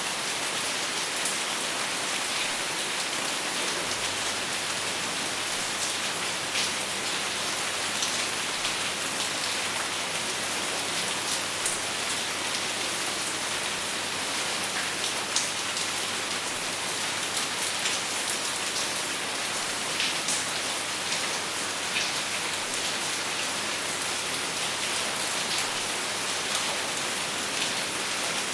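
Steady rain without thunder: an even hiss of rainfall with individual drops striking sharply here and there.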